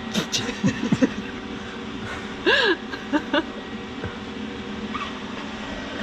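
A cat meowing: a few short chirpy sounds in the first second, then one louder arched meow about two and a half seconds in and two brief ones after it, over a steady hum.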